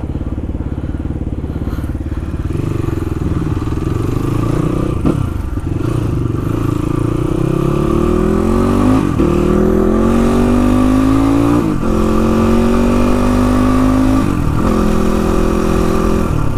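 Motorcycle engine accelerating up through the gears: its pitch climbs steadily, then drops sharply at each upshift, about four shifts in all.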